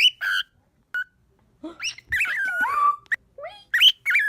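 Pet bird calling: a string of short chirps and squawks with sliding pitch, including one longer wavering call about two seconds in.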